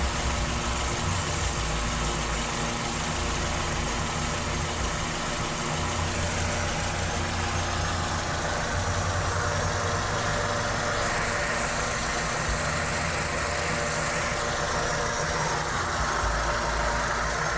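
Toyota Corolla 2E four-cylinder engine running at idle, a steady hum whose low rumble shifts unevenly every second or two.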